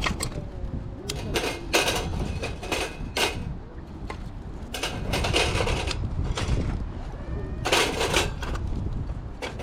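Irregular clinks and clatter of camping gear being handled, with a few longer rattling bursts, over a low rumble of wind on the microphone.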